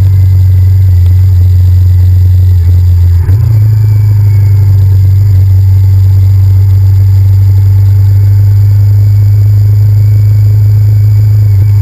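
Honda VTR1000F's V-twin engine running at a steady speed, a loud, even low drone picked up by a GoPro mounted on the bike. It dips briefly about three seconds in.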